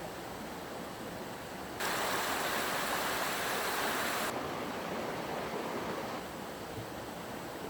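Creek water rushing steadily. The rush jumps suddenly louder and brighter about two seconds in, then drops back about two seconds later.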